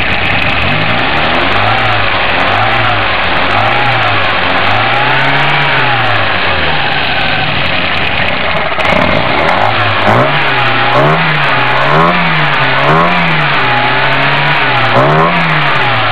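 An engine being revved over and over, its pitch rising and falling about once a second, with a short lull around the middle before the revs start again.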